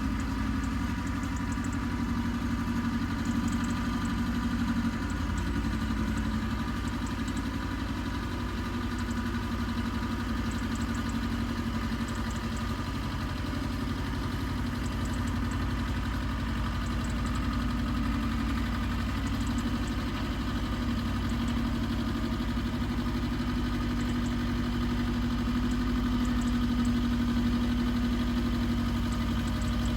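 Engine of an Iseki TX1300 compact tractor running steadily at an even speed, a continuous low mechanical hum.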